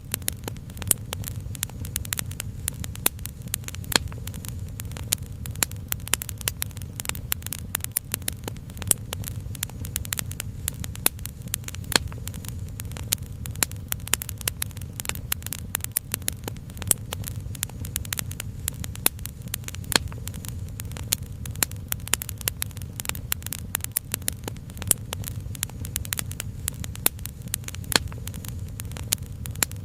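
Wood fire crackling steadily, with many sharp pops and snaps each second over a low, steady rumble.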